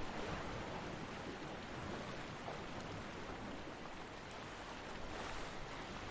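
Ocean waves washing onto a beach: a steady surf wash that swells slightly near the end.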